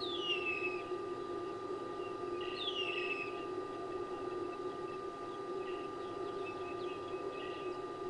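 A bird gives two downward-slurred whistles about two and a half seconds apart, each lasting under a second, then a few faint short calls near the end. A steady low hum and a steady higher tone run underneath.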